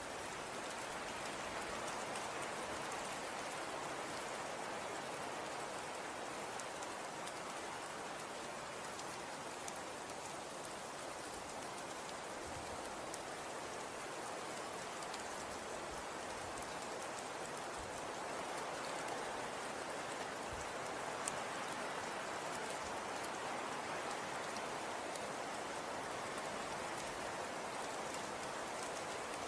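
Falling snow pattering steadily on surfaces: an even hiss sprinkled with fine faint ticks.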